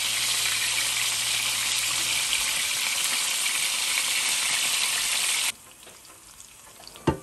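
Steak bites sizzling loudly in hot oil in an electric skillet as they are turned with tongs. The sizzle cuts off abruptly about five seconds in, leaving only a faint hiss, and a single sharp knock comes near the end.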